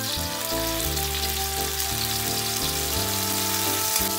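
Ground dried-chilli paste sizzling in hot oil with garlic and ginger in a wok, a steady frying hiss. Background music of held, slowly changing notes plays over it.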